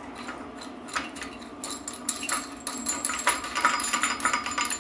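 Metal hand tools and parts clinking and rattling as they are handled on a workbench: a few light clinks, then a dense run of clinks with brief metallic ringing in the second half. A steady low hum sits underneath.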